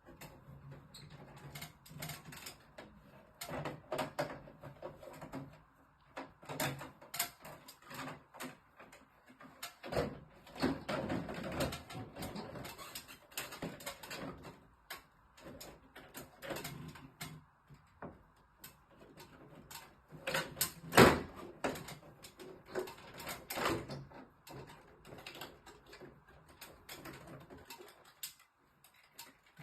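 Irregular clicks, taps and knocks, scattered throughout, the loudest a sharp knock about 21 seconds in.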